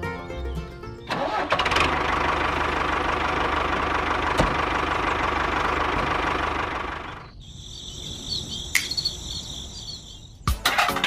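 Background music briefly, then a small motor runs steadily for about six seconds and stops. After it, a fainter high whine with a warble, and a few clicks near the end.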